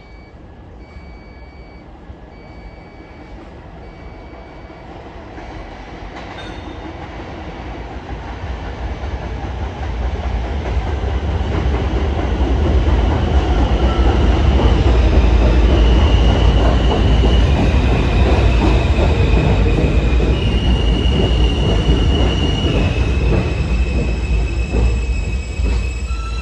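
R160 subway train pulling into the station: its rumble builds steadily for about thirteen seconds, then stays loud. High whining tones step in pitch as it brakes to a stop.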